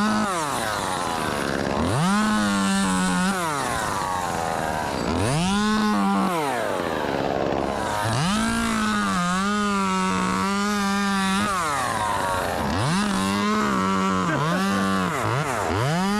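Two-stroke chainsaw revved to full speed and let back down about five times, each run held for one to three seconds with small dips in pitch while it cuts, dropping toward idle in between.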